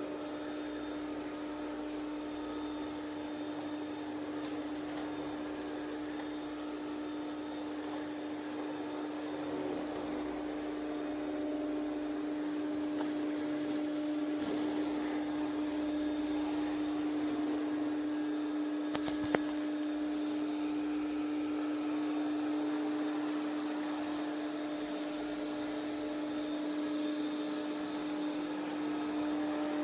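ECOVACS DEEBOT T50 Pro robot vacuum running: a steady motor hum over the hiss of its suction. There is one sharp click about two-thirds of the way through.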